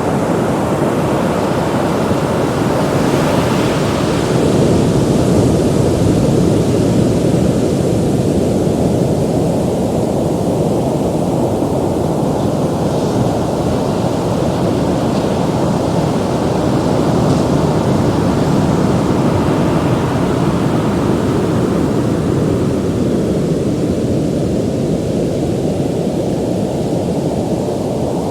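Ocean surf: waves breaking and washing in as a continuous rush of noise, swelling a few seconds in and again around the middle, then easing toward the end.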